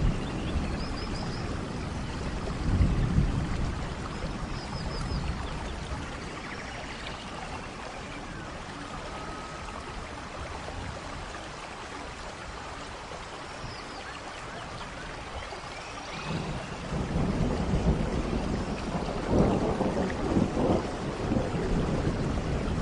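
Steady rain falling in a forest, with thunder rumbling low, briefly about three seconds in and then louder and longer from about two-thirds of the way through. A few short high chirps sound faintly over the rain.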